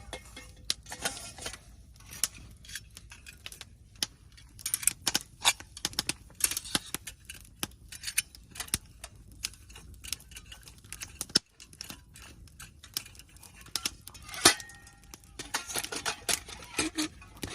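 Irregular clicks, clinks and rustles of small camping gear being handled, with a sharper knock about fourteen and a half seconds in.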